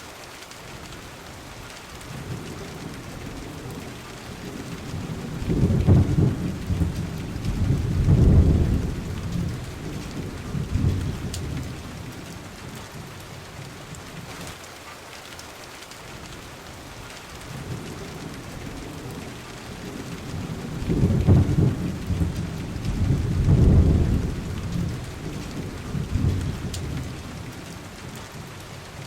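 Steady rain falling, with two long rolls of thunder. The first rumbles in about five seconds in and the second about twenty seconds in; each swells twice and dies away over several seconds.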